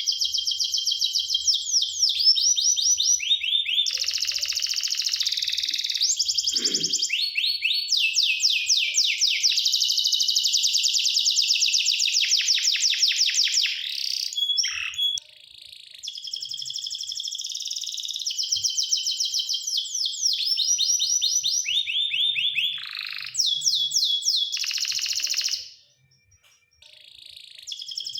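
Canary singing a long, high-pitched song of rapid trills and rolls made of fast repeated notes. It breaks off briefly about halfway through and again near the end.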